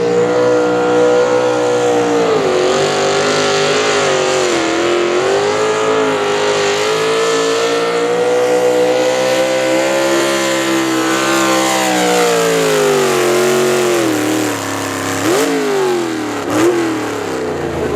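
Pulling tractor's engine running at full throttle under load, its pitch wavering and dipping briefly early on before holding high. About three-quarters of the way through the pitch falls away steadily, and then come two short sharp revs.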